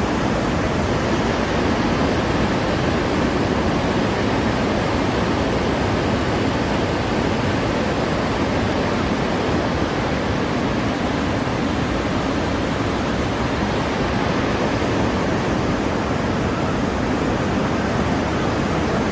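Fast floodwater rushing in a swollen river, a loud, steady, unbroken rushing noise.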